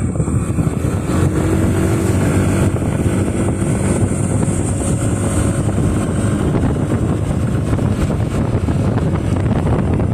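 Motorcycle riding at a steady pace: the engine running under a loud, even rush of road and wind noise.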